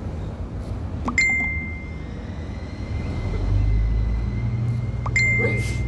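Two clear bell-like dings about four seconds apart, each ringing on in one steady high tone, over the low rumble of a Stadler train pulling into the station; the rumble grows louder about halfway through.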